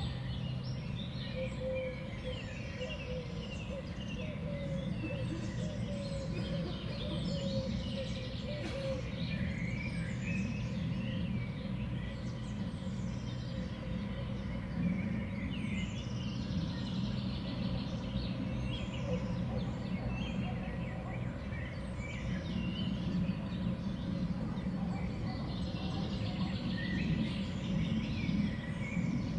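Small songbirds at a seed feeder give many short chirps and calls, overlapping throughout, over a steady low background rumble.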